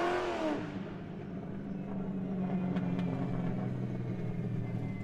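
A car tyre squeal with a wavering pitch fades out in the first half second, then a car engine drones steadily at a low pitch.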